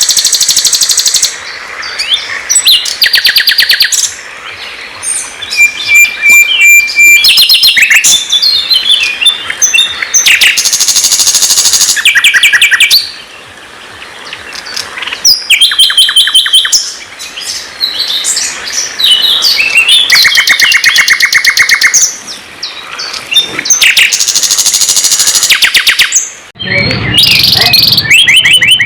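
Songbirds singing, sikatan londo flycatcher and white-rumped shama (murai batu) song. Loud phrases of fast repeated trills and whistles, each lasting a second or two, with short pauses between phrases.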